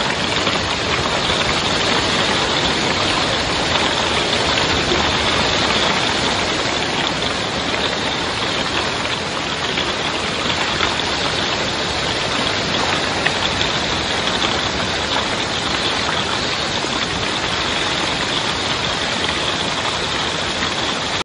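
Torrential, wind-driven rain in a violent storm, a steady unbroken hiss.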